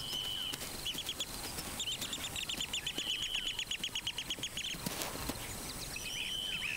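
Bird calls: a short held whistle, then a fast run of short chirps at about nine a second lasting about three seconds, and the held whistle again near the end.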